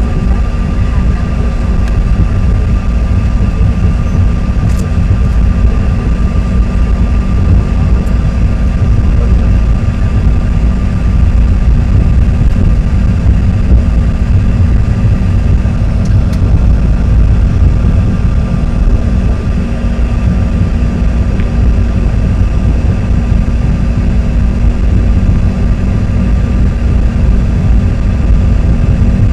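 Cabin noise of a CRJ-200 regional jet rolling on the ground: a steady, loud rumble from the wheels and airframe with the constant whine of its rear-mounted GE CF34 turbofan engines.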